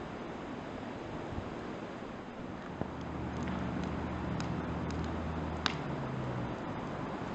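Wood fire crackling, with a few sharp pops from the burning firewood over a steady background rush. A low engine hum rises a few seconds in and fades again near the end.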